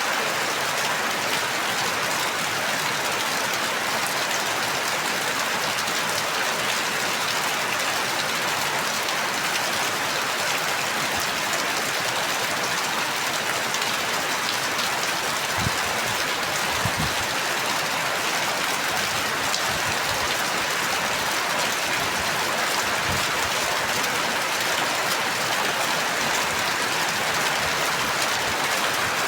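Steady rain falling, an even hiss of many drops with fine ticking, and a few faint low thuds in the middle.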